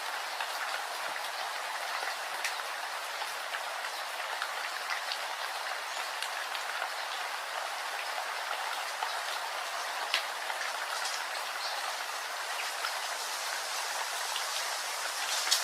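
Steady rain: an even hiss of rainfall with many individual drops ticking sharply on a surface, one louder drop about ten seconds in.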